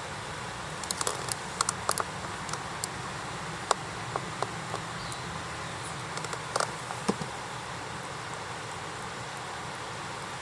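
Wood campfire crackling: irregular sharp pops and snaps over a steady low rumble, clustered in the first two-thirds, after which only the steady background remains.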